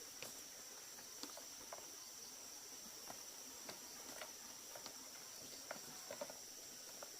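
Insects, crickets or the like, chirring steadily in one high, thin tone, with faint scattered light clicks and taps about every half second to second.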